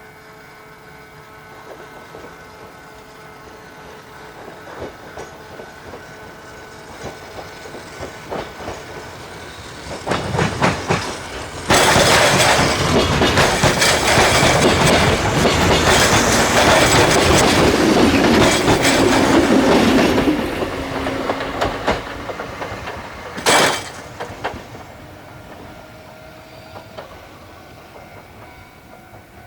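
A rail vehicle approaching and passing close by, with wheels clattering over the rail joints. The sound builds gradually, is loud for about eight seconds in the middle, then fades, with one short, sharp sound about two-thirds of the way through.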